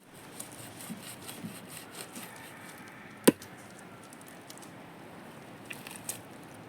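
A single sharp gunshot about three seconds in, from the hunters' gun fired at birds, over a faint background of small ticks and rustles.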